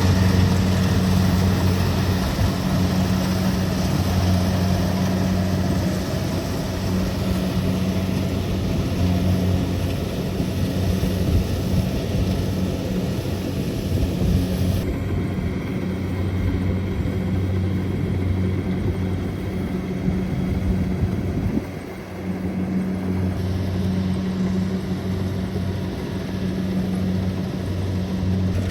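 Kubota DC-70 Plus rice combine harvester's diesel engine running steadily under load, a constant low hum with threshing noise over it. The sound turns duller about halfway through and dips briefly a little later.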